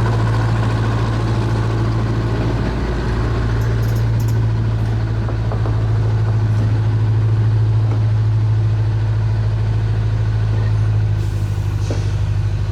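A motor or engine running steadily with a loud, low, even hum, which takes on a slight pulsing near the end.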